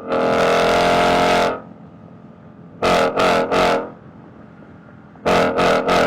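Car engine revved: one held note for about a second and a half, then two sets of about three quick rev blips.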